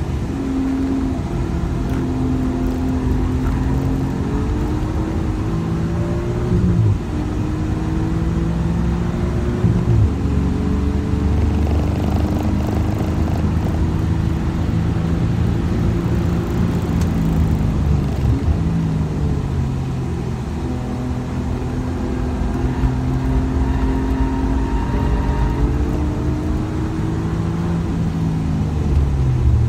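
Alfa Romeo Giulia Quadrifoglio's twin-turbo V6 heard from inside the cabin, pulling hard on a race track. Its pitch climbs under acceleration and drops sharply at a gear change about seven seconds in, then falls as the car brakes for a corner, with road and wind noise underneath.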